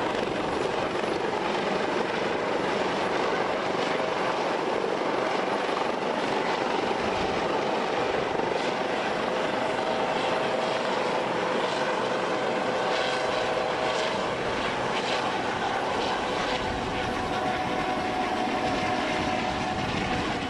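Helicopter running with a steady wash of rotor and engine noise, with faint steady tones entering partway through.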